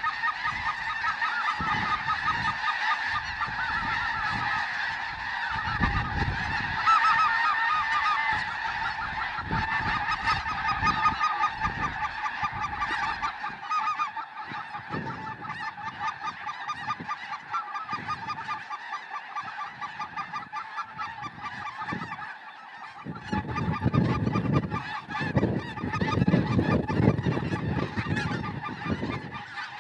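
A large flock of snow geese honking and yelping together in a dense, unbroken clamor. Low, uneven rumbling thumps join in after about 23 seconds.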